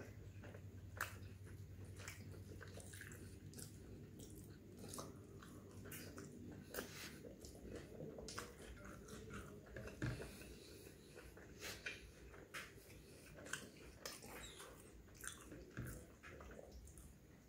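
Close-up mouth sounds of a man chewing plain roti with fish curry, with soft, irregular wet clicks and smacks.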